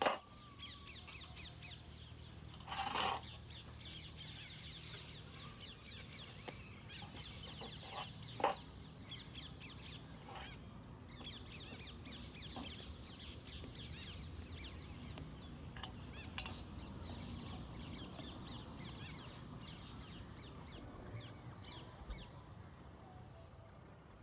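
Parrots feeding on fresh corn: a steady stream of small rapid clicks and crackles from beaks working the kernels, with a few short loud squawks, the loudest about three and eight seconds in.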